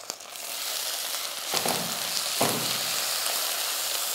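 Onions frying in hot ghee sizzle more strongly as a freshly pounded ginger, garlic and green chilli paste goes into the pan and is stirred in, with two louder knocks in the middle.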